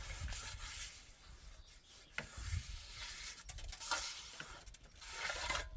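Hand tools scraping and rubbing on building material, with a few light knocks spaced a second or two apart.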